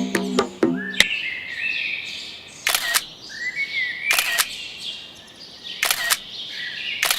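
Camera shutter firing again and again, each shot a quick double click, about one every second and a half, over birds chirping.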